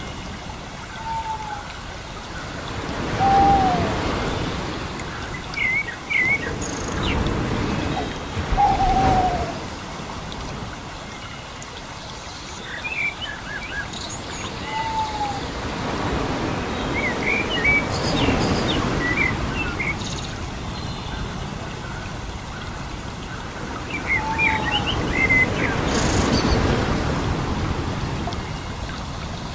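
Bird calls: short hoot-like notes gliding downward, repeating every few seconds, with clusters of high chirps between them. Under them is a rushing noise that swells and fades several times.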